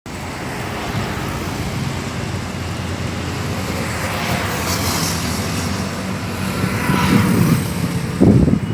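Antonov An-124-100's four Lotarev D-18T turbofan engines on landing approach: a steady jet rumble, with a whine that falls in pitch about seven seconds in. A loud low rumbling burst comes near the end.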